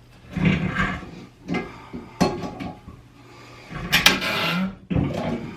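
Plastic creaking and scraping in several short bursts, some with a low groan, as an old toilet fill valve is worked loose from the tank.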